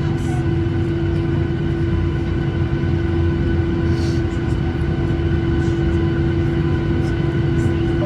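Cabin noise inside a Boeing 737-800: its jet engines running with a steady hum and a low rumble.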